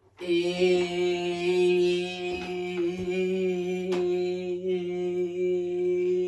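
A man's voice holding one long hummed note at a nearly steady low pitch, starting just after a silence.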